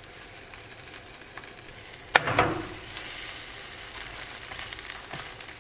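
Steady sizzling and crackling of food frying, with a louder burst about two seconds in.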